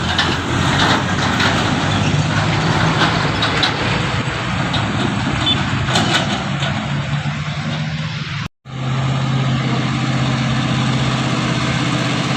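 Truck engine running with a steady hum and road noise. The sound drops out completely for a split second about eight and a half seconds in, then the engine carries on at a steady pitch.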